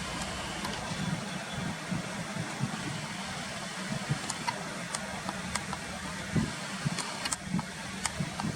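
Steady low hum of engine-like traffic noise over a constant background hiss, with a scatter of short, faint, high ticks in the second half.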